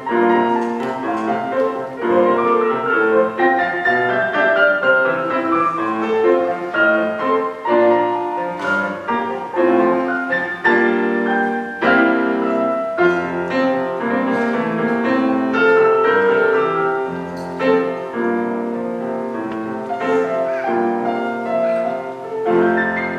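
Piano playing continuously, a run of shifting notes and chords.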